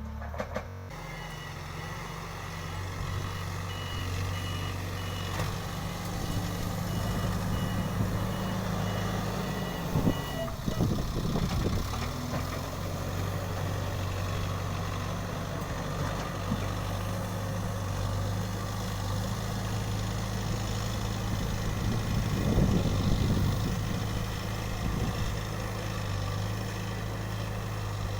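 Backhoe loader's diesel engine running steadily, with its reversing alarm beeping for the first ten seconds or so and then stopping. A few knocks around ten seconds in.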